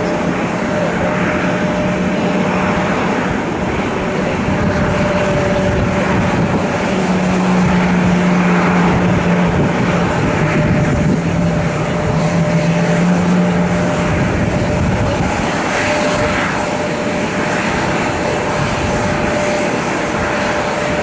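Jet airliner engines running on the ground, a loud steady rush with a low hum that grows stronger for several seconds in the middle and then fades back, and a thin steady whine above it.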